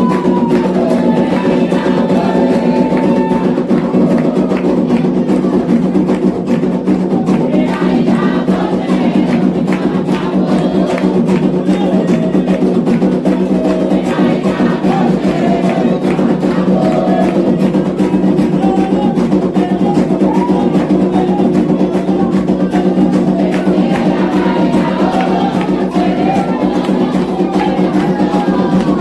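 Candomblé ritual music: a group singing a chant over steady rhythmic hand drumming on atabaques.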